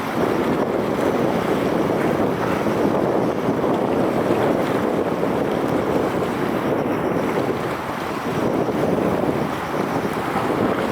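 Steady rushing of wind on the microphone mixed with water noise over open water, with no distinct engine tone.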